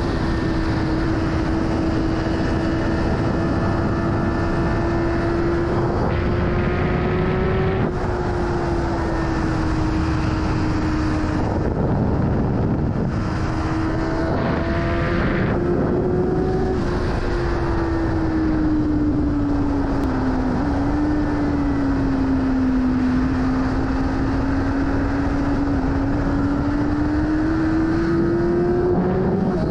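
BMW S1000RR inline-four sport bike engine running at steady high revs, its pitch slowly rising and falling with the throttle, under a constant rush of wind noise.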